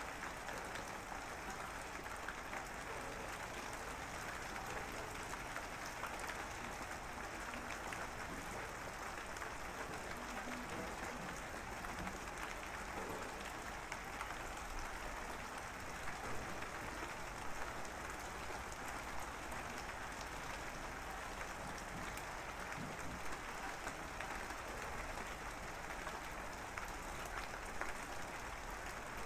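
Steady rain: an even hiss of many drops, with now and then a slightly louder tick.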